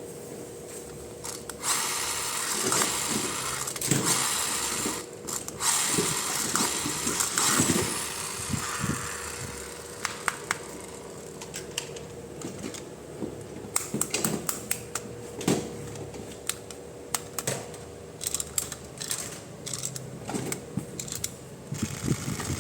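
Toy unboxing handling sounds: a stretch of crinkling and rustling, then a run of quick clicks and taps of plastic toy parts being handled.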